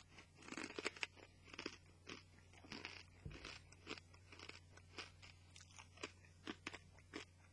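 A person chewing a mouthful of pork crackling: a faint run of irregular crunches.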